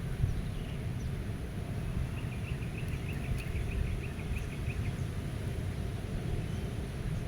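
Wind rumbling steadily in the low range, as breeze on the microphone, over a meadow. A songbird sings a rapid trill of about six short repeated notes a second for roughly three seconds in the middle, with a few faint chirps around it.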